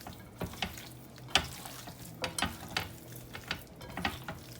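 Hands rubbing dry seasoning into raw chicken wings in a bowl: irregular soft squelches and small clicks as the wet meat is worked and turned.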